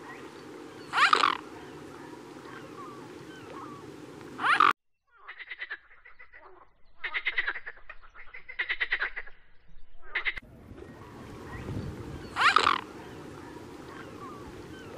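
A common frog croaking in four purring bursts of rapid pulses, set between two stretches of steady low outdoor background. Each of those stretches holds two short, loud calls from water birds, and these calls are the loudest sounds.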